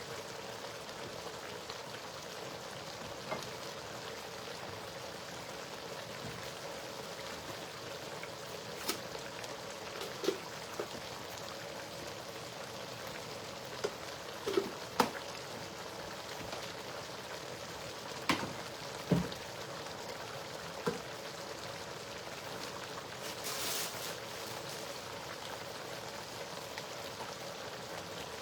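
A pot of spinach stew sizzling steadily on the stove, with a few light clicks and taps scattered through it and a short louder hiss near the end.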